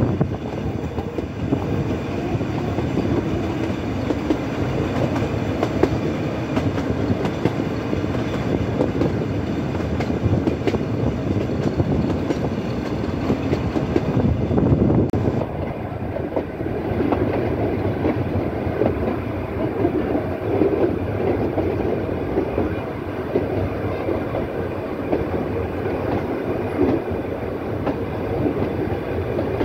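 Nilgiri Mountain Railway train running on its metre-gauge track, heard from an open coach window: a steady rumble with wheel clatter.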